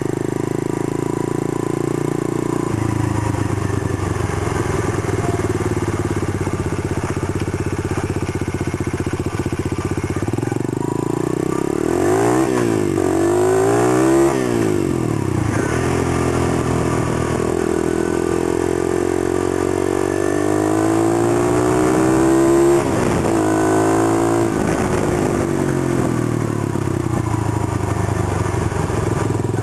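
SSR125 pit bike's 125cc single-cylinder four-stroke engine, fitted with a UNI air filter and 24 mm Mikuni carb, running steadily, then revving up under acceleration. Its pitch climbs and falls back twice: a short climb around the middle, then a longer climb that drops off suddenly, like a gear change, before it settles to steady running again.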